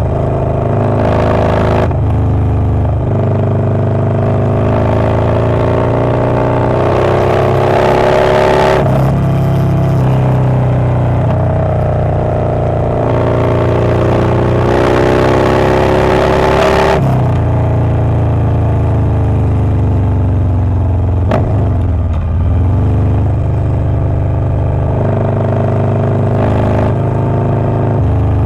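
Harley-Davidson Low Rider S's Milwaukee-Eight 117 V-twin with a Wood Performance 777XE cam, running under way. Its note climbs slowly for several seconds at a time as it pulls, falls abruptly twice, and sags low once before picking up again.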